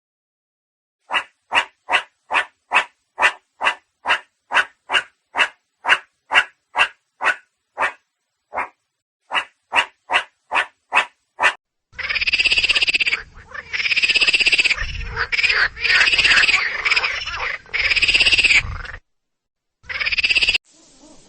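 Animal calls: a long run of short, evenly spaced calls, about two and a half a second with a short break partway, then, about halfway through, louder drawn-out calls about a second each that rise and fall in pitch.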